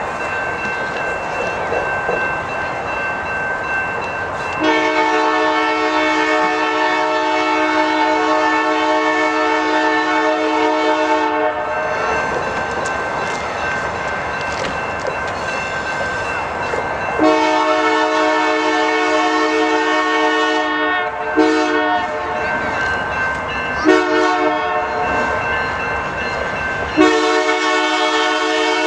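Canadian Pacific locomotive's air horn sounding a series of blasts: two long ones, two short ones, then another long one near the end, over the rumble of the passing train.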